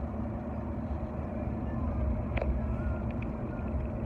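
Steady road and engine rumble of a car driving, heard from inside the cabin. A sharp click comes a little past halfway, with a couple of faint ticks soon after.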